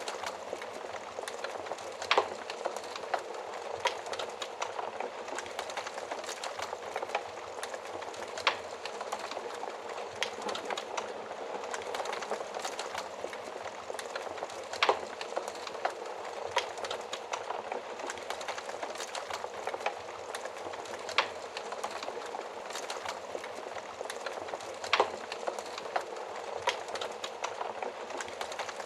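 Wood fire burning inside an oven: a steady hiss and flutter of flames with irregular crackles and sharp pops, a few louder snaps scattered through it.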